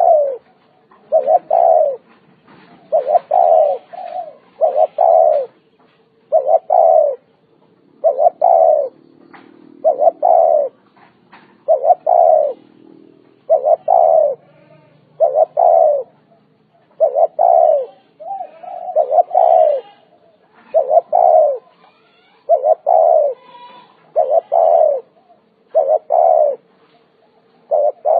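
Spotted dove cooing: a steady series of short, low coo notes repeated about every second and a half, some in close pairs.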